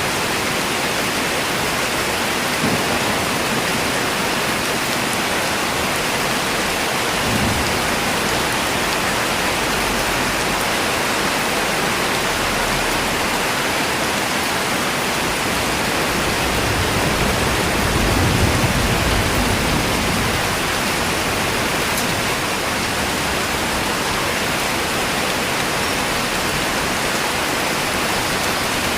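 Steady, heavy rain: a dense, even hiss with no single drops standing out. A low rumble swells briefly a little past the middle.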